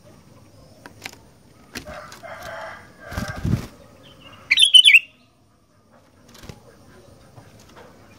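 Sooty-headed bulbul flapping its wings, with a few sharp knocks, then one short loud chirp about halfway through.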